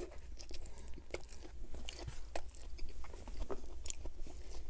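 Close-miked chewing of a mouthful of Burger King Whopper Jr, with irregular soft wet mouth clicks.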